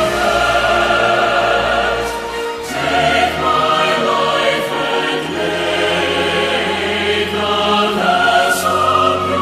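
Background music: a choir singing long held chords over instrumental accompaniment, the chords changing every second or two.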